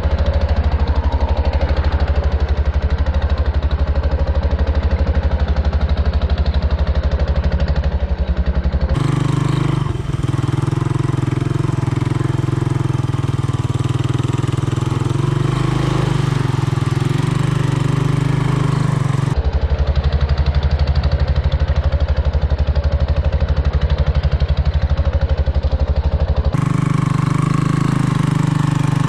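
Honda ATC 200M three-wheeler's single-cylinder four-stroke engine running with a pulsing exhaust note. The engine note jumps higher about nine seconds in, drops back about ten seconds later, and rises again near the end.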